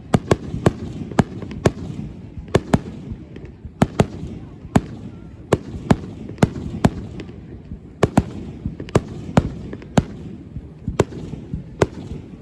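Fireworks display: an irregular rapid run of sharp bangs and cracks, about two a second, over a continuous low rumble from the bursts.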